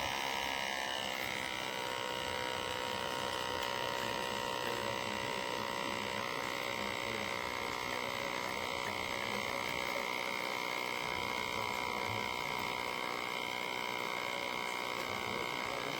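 Small electric pump of a Wacaco Pixapresso portable espresso machine running steadily, a high-pitched motor hum whose pitch shifts slightly about a second in.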